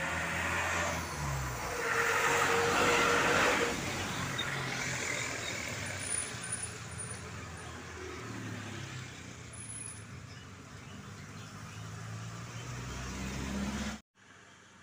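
Heavy trucks driving past on a wet, bumpy road, their engines running with a steady low drone and tyre and road noise. The noise is loudest about two to three and a half seconds in, then stays lower, and the sound cuts off abruptly near the end.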